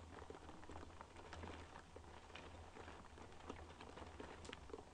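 Rain pattering on a window pane: faint, irregular drop ticks over a low steady rumble.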